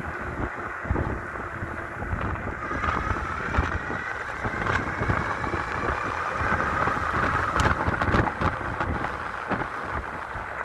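A 5000-watt electric bike's motor whining and rising in pitch as the bike speeds up, over wind buffeting the microphone and road rumble, with a few sharp clicks.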